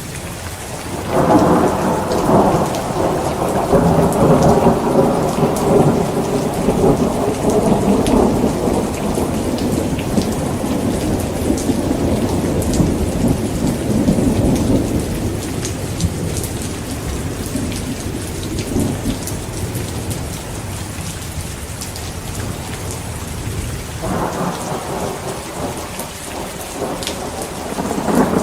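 Heavy rain falling steadily with rolling thunder. A long rumble builds about a second in and slowly dies away, and a second one begins near the end.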